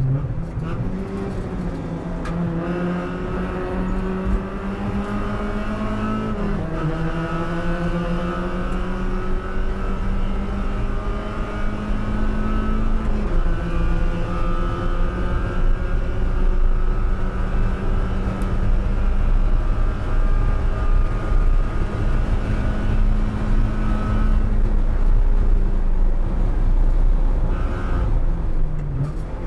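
1999 Mazda Miata (NB) Spec Miata race car's 1.8-litre four-cylinder engine under full throttle, heard from inside the cockpit. Its pitch climbs through the gears, with upshifts about six and thirteen seconds in, then it holds high in the rev range before falling off right at the end as the driver lifts.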